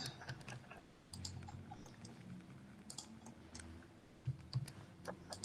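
Faint, irregular clicks of keys being pressed as numbers are entered for a calculation, over a faint low hum.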